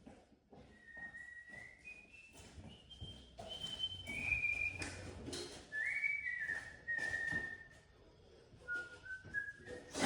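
A person whistling a slow tune: held notes stepping up and then back down, with faint knocks and clatter from work beneath.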